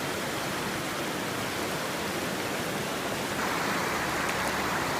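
Steady rushing of a mountain river: an even hiss of flowing water, growing slightly louder a little after three seconds in.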